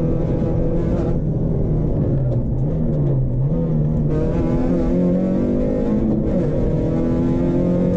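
Rally car engine heard from inside the cabin. It eases off with the pitch dropping as the car brakes hard for a chicane about two to three seconds in, then comes back on the throttle at about four seconds and pulls again with rising pitch.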